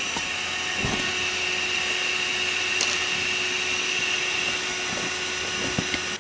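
A small electric motor running steadily with a constant whine, cutting off suddenly at the end.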